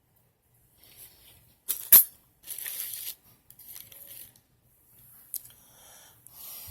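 Thin steel car lockout tools being handled. There is a sharp clink about two seconds in, then brief rustling and a few small knocks and clicks.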